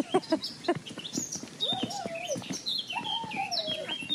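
Birds chirping with quick high notes that fall in pitch, and two longer drawn calls, each about a second, that rise then fall. Footsteps tap on concrete steps underneath.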